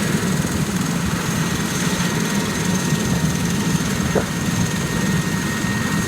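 Yellow ambulance helicopter running close by: a fast, steady rotor beat with thin, steady high whines over it.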